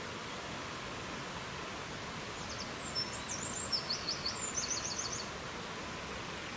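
A small songbird sings one high phrase about two and a half seconds in: a few short notes ending in a quick trill. It sounds over a steady rushing hiss of wind.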